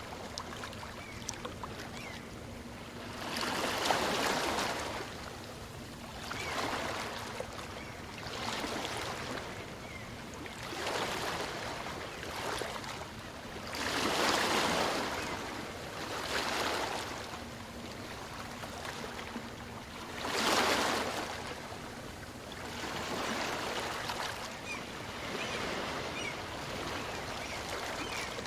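Small waves on a calm sea breaking and washing up the beach, one after another every two to three seconds, with three larger ones among them.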